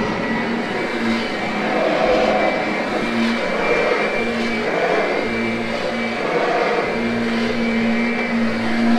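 Kirby upright vacuum running steadily over carpet, grooming the pile after a cleaning. Its motor hum breaks off and returns several times, with swells of rushing noise every second or so.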